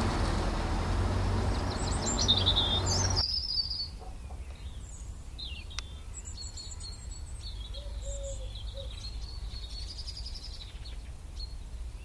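Small birds chirping and singing in short, high calls, over a steady outdoor background rumble and hiss that drops away suddenly about three seconds in, leaving the bird calls on a quieter background.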